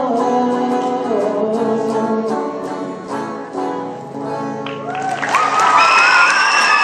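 Instrumental ending of a country song, which fades out; about five seconds in, an audience breaks into loud cheering and applause with high, shrill screams.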